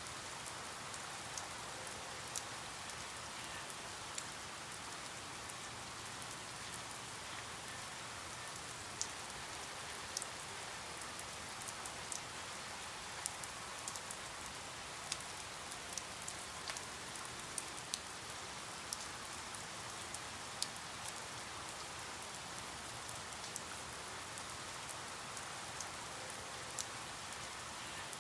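Steady rain hiss with scattered sharp drips of individual raindrops striking a surface.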